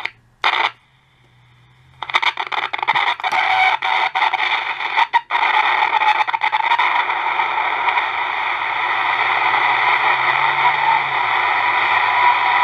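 Snake Mountain playset's battery-powered microphone unit switched on: a short noise near the start, then crackling static from about two seconds in that settles into a steady hiss. The static shows the circuit works, and it sounds like it wants to pick something up.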